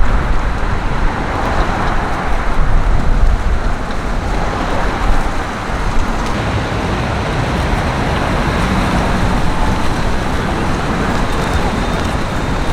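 Busy street traffic: cars and other motor vehicles driving past in a steady roadway noise, a little louder between about two and four seconds in.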